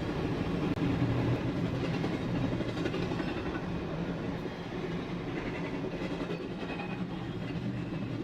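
Train running on rails: a steady rumble of wheels and cars, slightly louder about a second in and then even.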